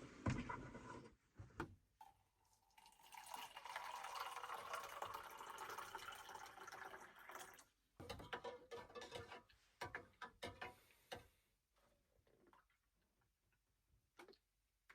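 Water poured into a container for a few seconds, followed by scattered light knocks and clatter, then near silence.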